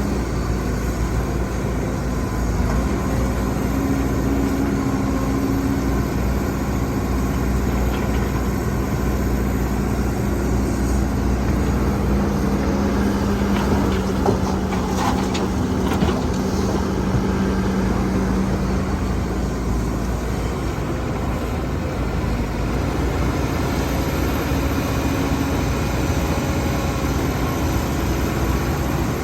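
Diesel engine of heavy earthmoving machinery running steadily with a constant low hum, with a few faint knocks about halfway through.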